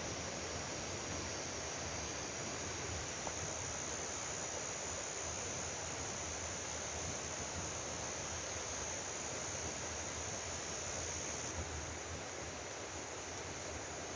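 Mountain-valley stream rushing in a steady, even wash of water noise. A steady high-pitched hiss sits above it and eases a little near the end.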